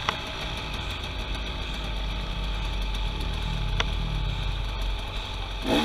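A vehicle engine running steadily at low revs, like an idle.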